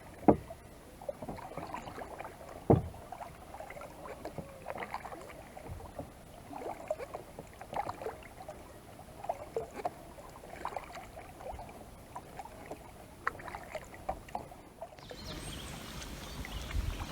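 Kayak being paddled on a lake: irregular paddle splashes and drips, with two sharp knocks of the paddle against the hull in the first few seconds. A steadier rushing noise comes in near the end.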